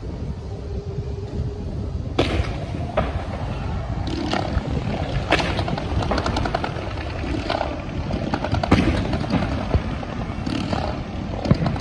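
Aerial fireworks going off: sharp bangs roughly every second from about two seconds in, some followed by crackling, over a steady low rumble.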